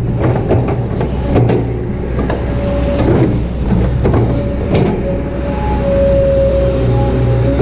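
Kobelco SK200-8 excavator working: the diesel engine runs steadily under a hydraulic whine that swells and fades, strongest about six seconds in, with scattered knocks and clatter from the digging work.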